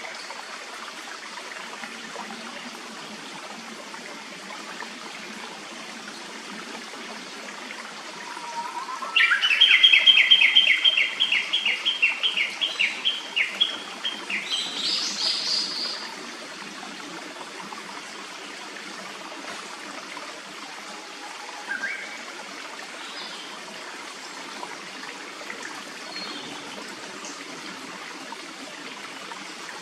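A stream flowing steadily, and about nine seconds in a black paradise flycatcher sings: a rapid run of repeated notes lasting several seconds, ending in a few higher notes. A couple of short faint chirps come later.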